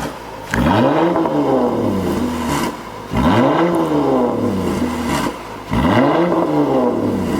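Jeep Grand Cherokee L engine revving through an aftermarket dual valved-muffler performance exhaust: three revs, each rising in pitch and falling back over about two seconds, with a short lull between them, about half a second, three seconds and nearly six seconds in.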